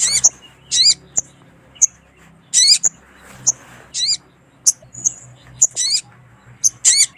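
Little spiderhunter (sogon) calling: sharp, high single chips every half second or so, broken by louder, brief wavering bursts of several notes about every second or two. This is a lure call of a female sogon calling the male.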